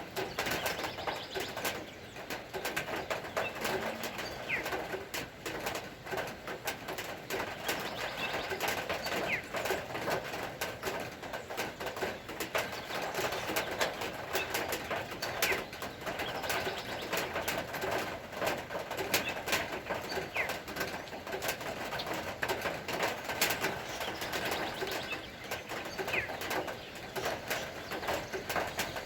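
Birds calling steadily, doves cooing and smaller birds giving short rising chirps, over a dense patter of tiny clicks.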